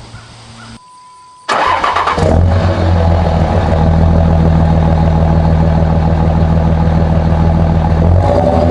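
A straight-piped diesel pickup truck engine cranks and fires about a second and a half in, then runs at a steady idle; near the end its pitch starts to rise as it is revved.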